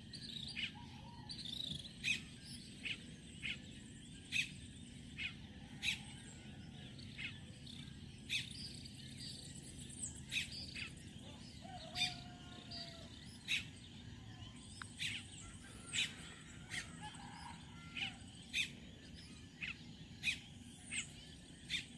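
Birds chirping: short, sharp calls coming irregularly, about one or two a second, over a faint steady background.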